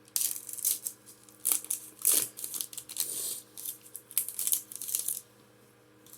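Foil Pokémon booster pack being handled and torn open: a run of short, sharp crinkling and tearing rustles that stops about five seconds in.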